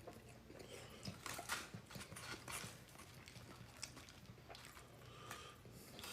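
Faint chewing with irregular wet mouth clicks and smacks, close to the microphone; the clicks come thickest in the first few seconds.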